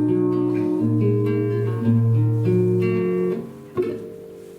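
Acoustic guitar playing the closing chords of a song on its own, the notes ringing and changing about once a second, stopping a little over three seconds in; a single soft knock follows shortly after.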